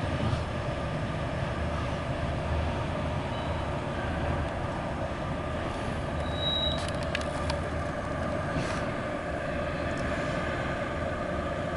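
Loaded autorack freight cars rolling past on the rails, a steady rumble of wheels with a few clicks and a brief high wheel squeal about six and a half seconds in.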